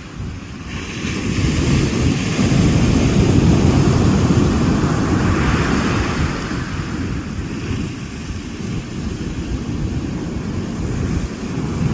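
Ocean surf: waves breaking and washing in, the noise building over the first two seconds and a hissing wash of water about halfway through, with wind rumbling on the microphone.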